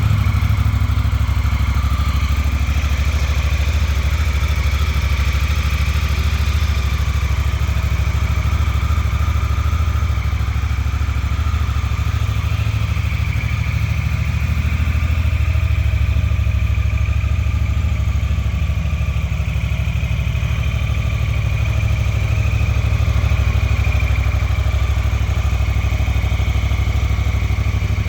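A 2018 Honda Africa Twin 1000 DCT's parallel-twin engine idling steadily on its original exhaust, a low even pulsing with no revs.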